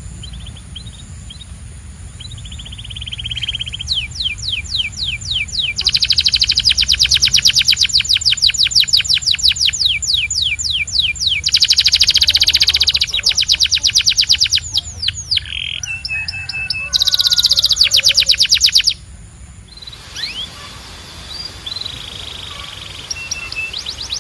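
Domestic canary singing a long song of rapid trills: runs of fast, repeated down-sweeping notes that change speed and pitch from phrase to phrase. About nineteen seconds in the song breaks off and resumes with softer, sparser notes, over a low steady hum.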